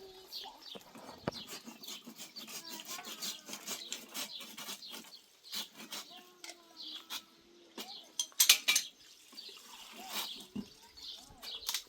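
Small birds chirping, with scattered sharp clicks and clinks of hard objects knocking together, the loudest cluster about eight seconds in.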